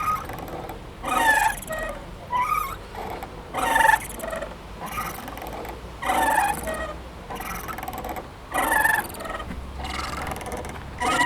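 Playground swing squeaking on its hangers, one gliding squeak about every two and a half seconds as it swings back and forth.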